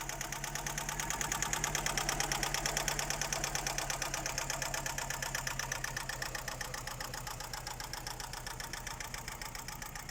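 Daewoo Nexia four-cylinder engine idling with a fast, even, repetitive knock from inside the engine.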